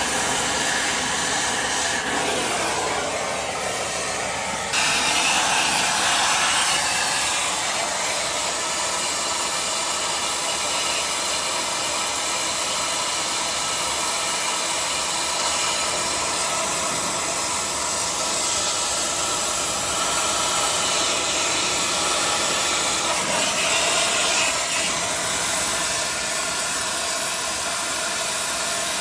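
Oxy-fuel cutting torch hissing steadily while cutting steel. The hiss gets louder about five seconds in.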